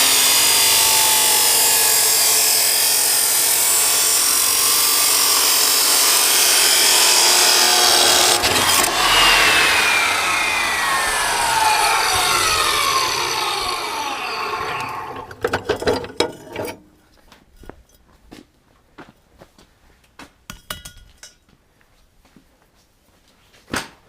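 Chop saw cutting through a 3-inch exhaust coupler pipe, a loud steady grinding. About eight or nine seconds in, the saw comes out of the cut and its motor winds down with a falling whine over several seconds. A few sharp clanks and knocks follow.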